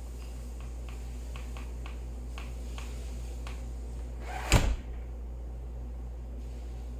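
A door shutting with a single short knock about four and a half seconds in, after a run of faint light ticks, over a steady background hiss.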